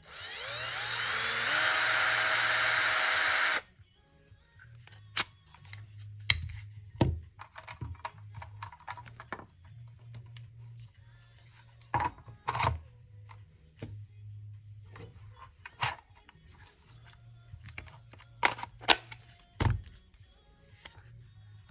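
Wesco 18 V cordless hammer drill running with no load. The motor spins up with a rising whine, holds a steady speed, then stops abruptly after about three and a half seconds. For the rest, scattered clicks and knocks from handling the drill sound over a faint low hum.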